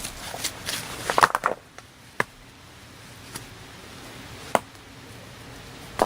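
Sharp wooden knocks: a quick cluster of them about a second in, then single knocks at about two, four and a half and six seconds.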